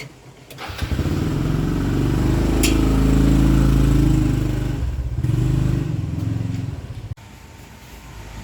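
A motor vehicle engine running loudly for about six seconds, its pitch swelling and dipping, then cutting off abruptly near the end.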